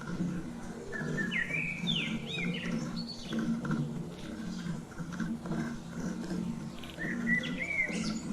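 Bird chirping in two quick phrases of short gliding notes, one about a second in and one near the end, over a low steady hum.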